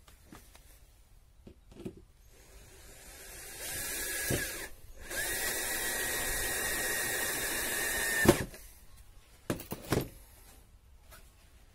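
A handheld power tool working the hive's pallet-wood boards. It runs up for about two seconds, stops briefly, then runs steadily with a constant whine for about three seconds before cutting off with a knock. A few short clicks follow.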